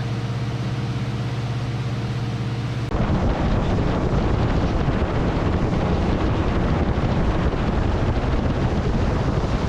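A steady low hum for about three seconds, then a sudden switch to the running of a fishing boat under way, the outboard engine blurred by heavy wind rushing over the microphone.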